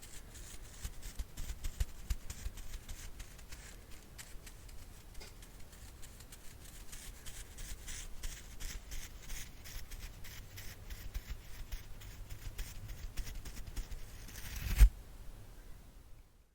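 ASMR brush bristles scratching and rustling in close, a continuous crackle of fine clicks with soft low bumps. One louder thump comes near the end, then the sound fades out.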